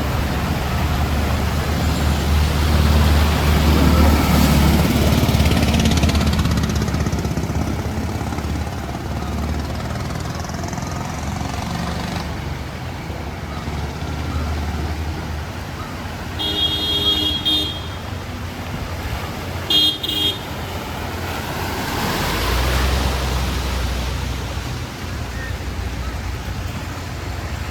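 City street traffic: motor vehicle engines running and passing, swelling near the start and again later. A vehicle horn sounds twice, once briefly held and once a short toot, about two-thirds of the way in.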